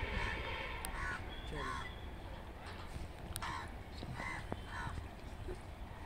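Birds calling in about five short, harsh cries spread through the few seconds, over a low steady rumble of background noise.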